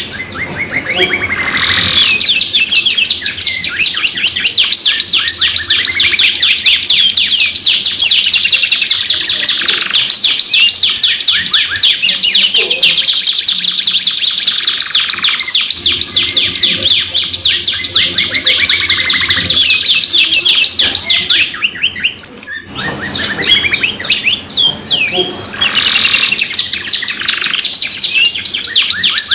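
Domestic canaries singing, with long, fast rolling trills and chirps running almost without a break. There is a brief lull about three quarters of the way through before the trilling resumes.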